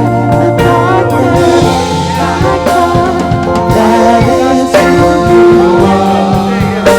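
Live gospel praise band playing, led by a drum kit with a sustained low bass line under it and some singing over the top.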